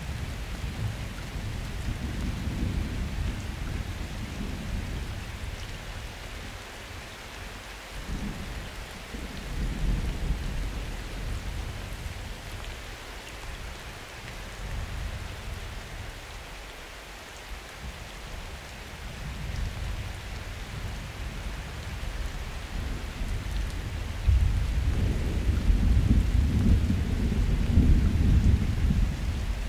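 Steady summer rain with rolling thunder: low rumbles swell and fade, one about eight seconds in and a louder, longer rumble starting near the end.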